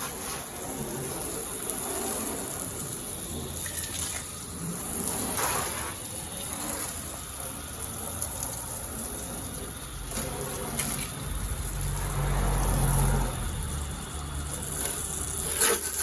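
Water from a garden hose spraying onto a car, a steady rushing hiss. A low rumble joins in about eleven seconds in for a couple of seconds.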